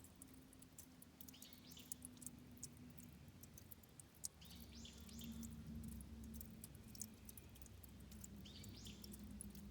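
Faint bird calls in a quiet forest, three short calls: about a second and a half in, midway and near the end. Scattered faint ticks and a low steady hum lie underneath.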